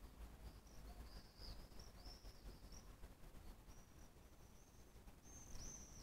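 Faint, thin, high-pitched bird calls: several drawn-out notes, the last one near the end a little louder, over near silence.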